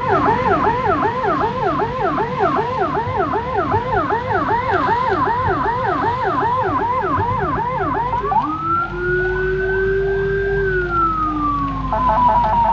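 Ambulance siren sounding in fast yelp mode, a quick run of falling sweeps about four a second, then switching about eight seconds in to a slow wail that rises and falls.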